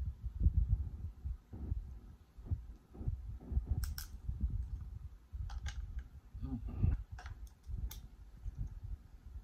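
Close-miked chewing of boiled lobster meat: soft, uneven low thumps of the jaw and mouth. A few sharp clicks come from the lobster shell and fork being handled around the middle and near the end.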